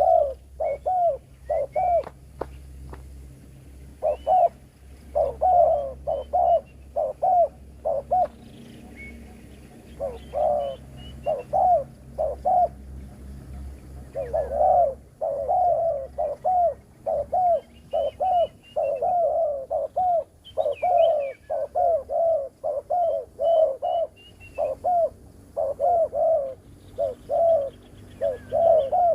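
Spotted dove (terkukur) cooing in repeated bouts of short, pulsing coos, with small birds chirping faintly higher up.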